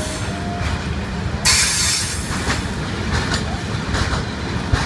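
Train passing through the station without stopping: a steady low rumble, a sudden loud rush of noise about a second and a half in, then regular clicks of wheels over rail joints.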